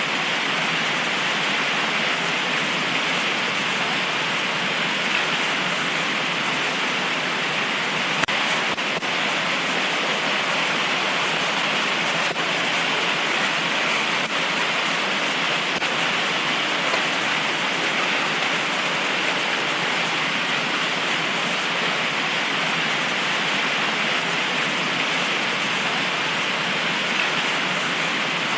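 Heavy tropical rain pouring steadily, an even hiss with a few faint drop ticks.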